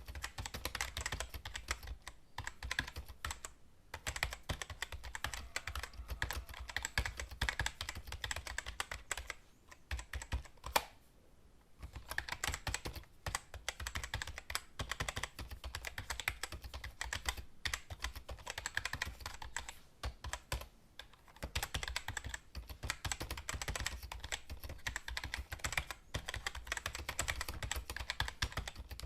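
Computer keyboard being typed on rapidly, a dense run of key clicks with a few short pauses, the longest about ten to twelve seconds in.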